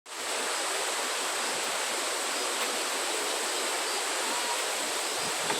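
Waterfall pouring, a steady unbroken rush of falling and splashing water.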